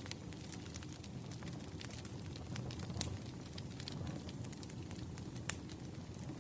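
Wood fire crackling: a steady low rumble of burning logs with scattered sharp pops, the loudest about three seconds in and again about five and a half seconds in.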